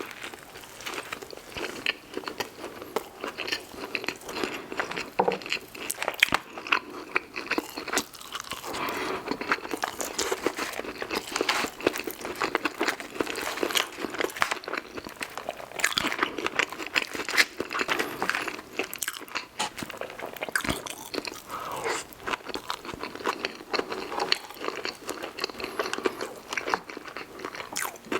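Close-miked mouth sounds of eating fast food: continuous crunchy bites and chewing with dense crackling clicks.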